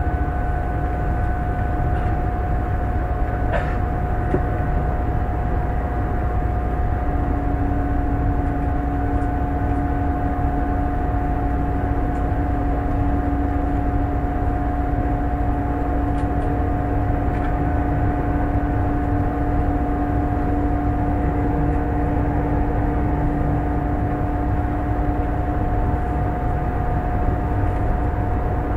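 Running noise heard inside the carriage of an E1 series MAX double-decker Shinkansen: a steady rumble with a constant hum. A second, lower steady whine comes in about a quarter of the way through and drops out near the end.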